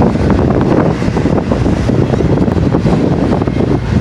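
Double-stack intermodal freight cars rolling past: the steady, loud rumble of steel wheels on the rails, with scattered knocks and clicks.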